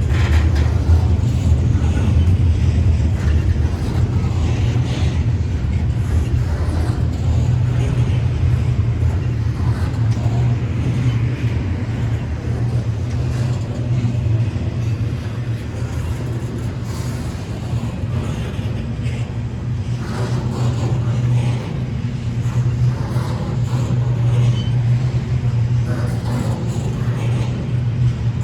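Intermodal freight train rolling past, a steady low rumble of wheels on the rails.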